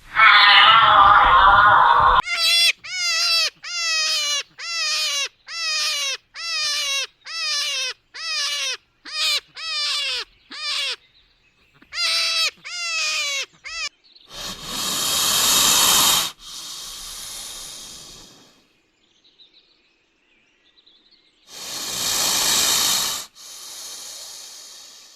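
A run of animal calls: a rough, noisy call at the start, then about a dozen short repeated calls, each sliding down in pitch, followed by two long hissing calls several seconds apart.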